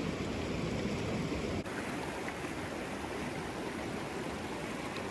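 Rushing creek water: a steady wash of noise, shifting slightly in level about a second and a half in.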